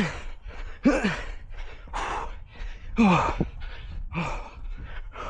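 A runner's heavy, laboured breathing, about one breath a second. Several exhales come out as short voiced groans that fall in pitch, the sound of exhaustion late in a hard run.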